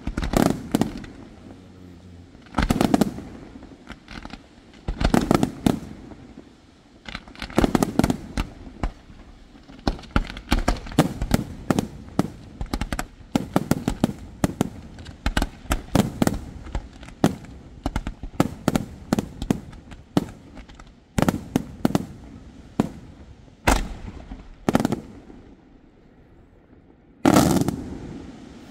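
Aerial fireworks display: a rapid, irregular string of shell bursts and bangs, densest through the middle, easing off near the end before one more loud burst.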